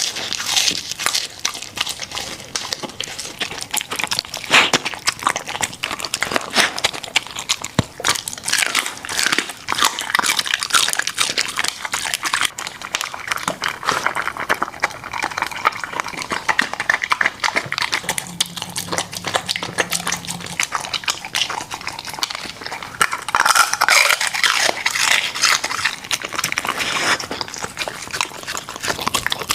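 Border collie eating, a dense, continuous run of quick smacking and chewing clicks.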